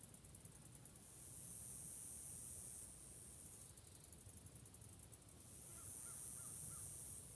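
Faint woodland ambience: a shrill, high-pitched insect chorus that pulses and then swells into a steady buzz for about two seconds, twice. A bird gives a short series of four faint chirps near the end.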